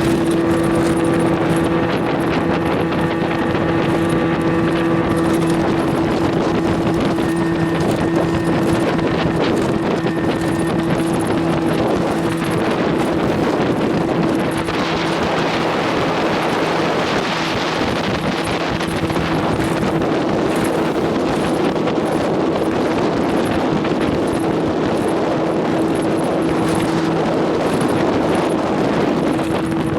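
Boat's outboard motor running at a steady speed while under way, with wind on the microphone.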